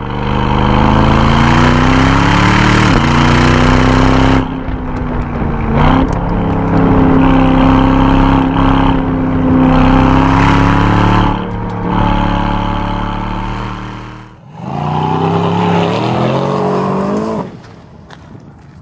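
Aston Martin DBX 707's twin-turbocharged 4.0-litre V8 exhaust under hard acceleration. The pitch climbs and drops sharply at quick upshifts about three and six seconds in, then holds a steady drone. It falls off about fourteen seconds in, climbs once more in a short burst of revs, and drops away near the end.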